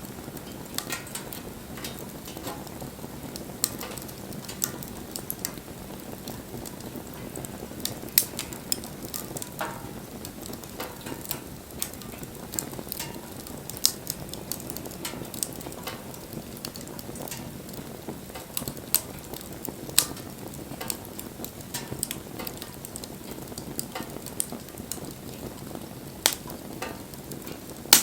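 Wood fire crackling: irregular sharp pops and snaps over a steady low hiss of burning.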